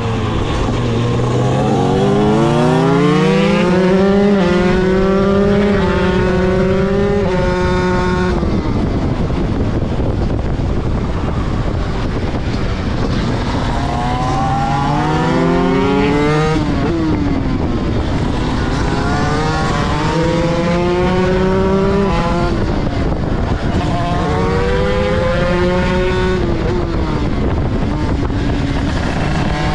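Motorcycle engine accelerating hard up through the gears: the pitch climbs in each gear and drops back at every shift, in several full-throttle pulls with short lifts between them.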